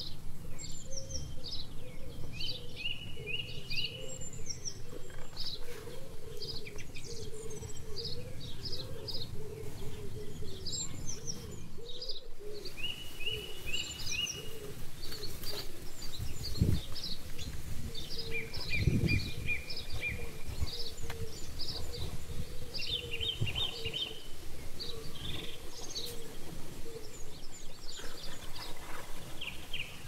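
Several birds chirping and trilling in short repeated calls, over steady low background noise. Two dull low thumps come a little past halfway.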